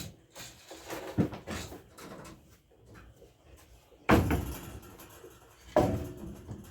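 Clattering knocks in a barn, with two loud, sudden bangs about four and six seconds in, each dying away over about a second.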